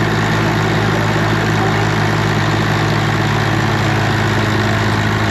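Tractor diesel engines running steadily at an even pitch, held against each other in a tug-of-war pull.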